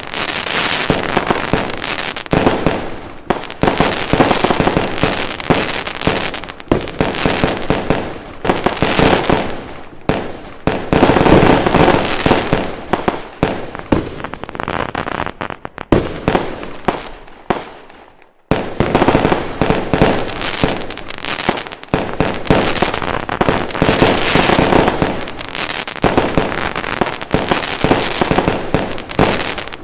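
Fireworks going off in a dense barrage of bangs and crackling firecrackers, with a brief lull a little past halfway before the barrage starts again.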